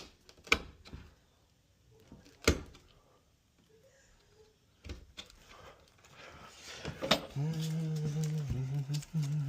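Sharp knocks and taps of hand work on a wooden door during a deadbolt install, three loud ones in the first three seconds. From about seven and a half seconds in, a steady low hum of one even pitch begins, breaking off briefly twice.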